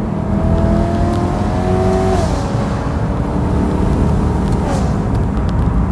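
BMW M3's 4.0-litre S65 V8 pulling through a modified stock exhaust with an X-pipe, heard from the car. The revs climb, drop sharply about two seconds in, then climb and drop again near the end as gears change.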